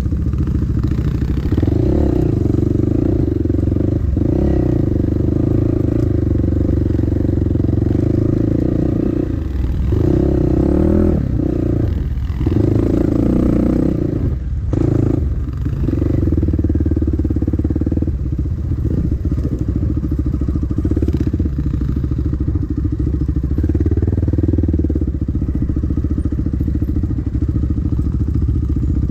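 Dirt bike engine running steadily on a trail ride, mixed with wind noise and clatter. The sound dips briefly a few times around the middle.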